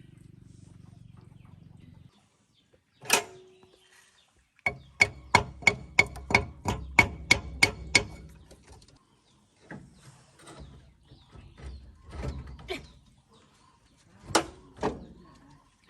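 Metal being struck hard, most likely with a hammer: a quick run of about a dozen ringing blows at three to four a second, with single knocks before and after. A steady low hum cuts off about two seconds in.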